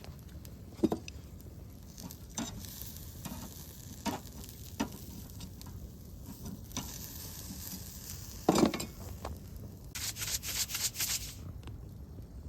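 Camp cooking at a fire: a utensil knocking and stirring in a pot or pan, with sizzling and a dense burst of high crackling near the end.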